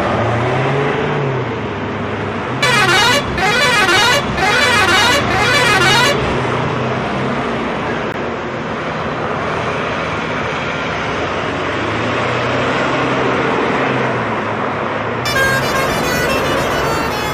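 Heavy truck engine running and revving, with four loud horn honks in quick succession about three seconds in. A steady many-toned sound starts near the end.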